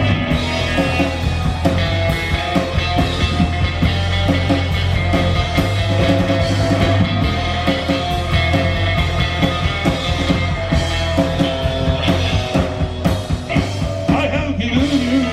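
Live rock band playing an instrumental stretch: drum kit, electric guitar and bass, loud and steady.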